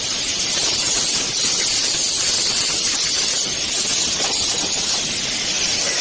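Angle grinder grinding the steel of a welded pushcart frame: a steady, loud hiss of disc on metal without let-up.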